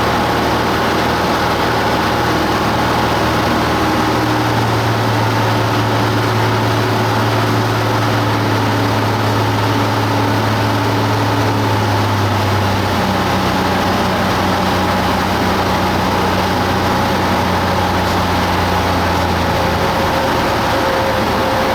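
Cessna 172 Skyhawk's piston engine and propeller droning steadily, with the engine note shifting to a new steady pitch a few times, as the power setting changes.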